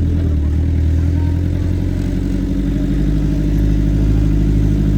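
Off-road vehicle's engine running steadily, its low note changing about two seconds in.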